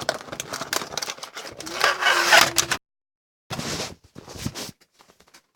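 Small die-cast toy cars and their box being handled: quick clicks, knocks and rattles, with a louder scraping rustle about two seconds in. The sound cuts out completely for a moment before more clatter.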